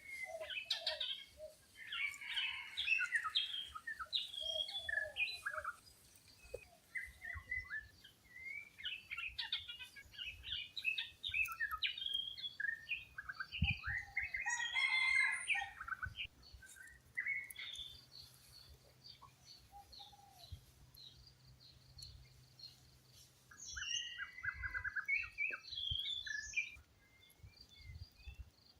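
Several wild birds chirping and singing, with overlapping short calls and trills coming in busy bursts separated by quieter lulls.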